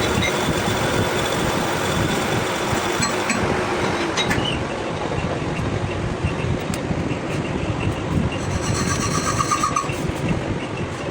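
Steady machine noise with a low rumble and scattered clicks, and a short run of quick ticks near the end.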